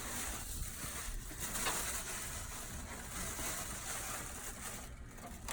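Faint rustling and scraping around a dryer exhaust hose as it is handled.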